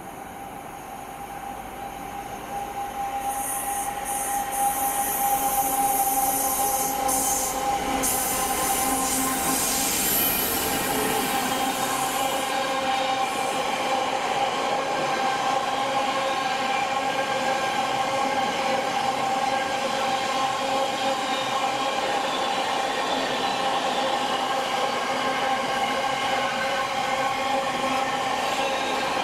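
GB Railfreight Class 66 diesel locomotive hauling an intermodal container freight train through the station. The noise builds over the first few seconds as the locomotive arrives and passes. The long line of container wagons then rolls by steadily, with a high ringing tone from the wheels over the rumble of the running gear.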